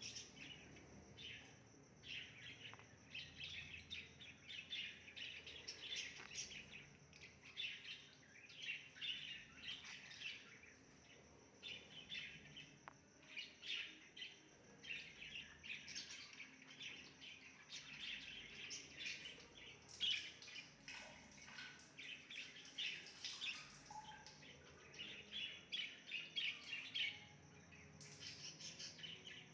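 Small birds chirping, many short calls one after another.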